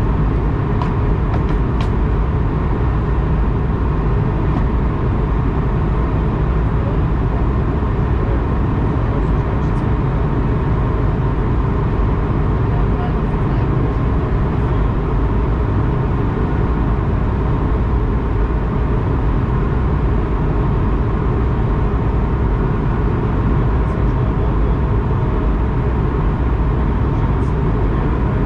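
Steady low rumble of a SWISS Airbus A220-100's engines and airflow, even in level throughout, with a few faint steady hums over it.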